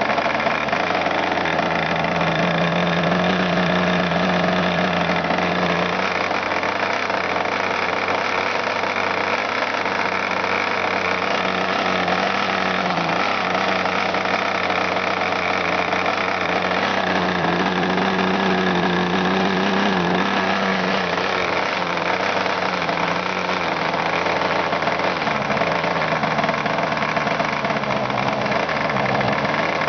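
Webra 61 RC two-stroke glow model-aircraft engine running continuously with an 11x8 propeller, its pitch drifting slightly up and down.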